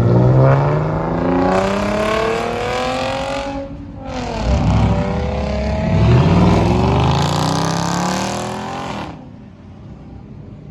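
A car engine accelerating hard, its pitch climbing steadily, then dropping sharply about four seconds in at a gear change. It climbs again and cuts off about nine seconds in as the driver lifts off.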